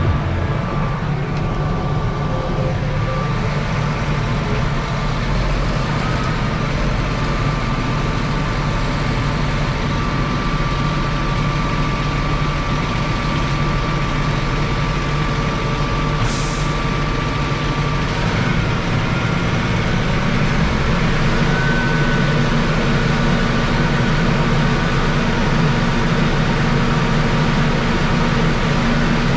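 Heavy diesel engines running steadily while a stuck floater truck is pulled out of mud by a tractor; about 20 seconds in, the engine note steps up in pitch as it comes under more load.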